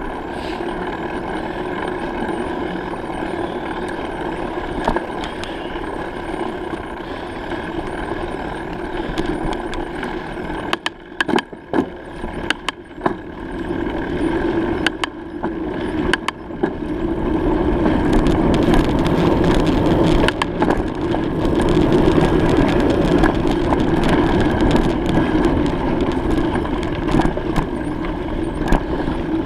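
Steady rushing noise of a bicycle ride, with a run of sharp clicks and knocks about halfway through, after which the rush grows louder.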